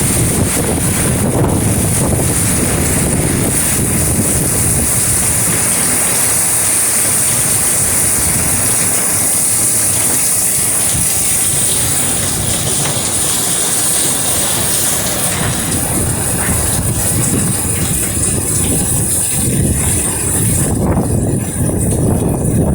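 Strong wind blasting across the microphone: a loud, steady rush with a high hiss.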